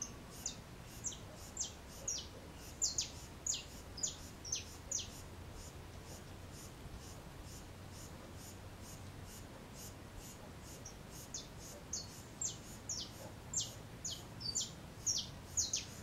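A bird calling: a run of short, high, falling notes, about two a second, for the first five seconds and again from about eleven seconds on. Beneath it, a faint, even, high chirping repeats steadily.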